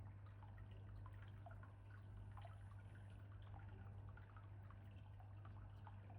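Faint water trickling and dripping in many small irregular drops, over a steady low hum.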